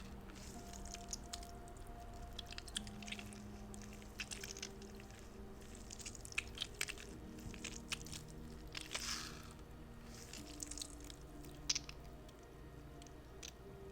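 Squishy spider fidget toy being squeezed and kneaded by hand, giving irregular soft squelches and crackling clicks, a few of them louder around the middle and near the end. Soft background music with long held notes plays underneath.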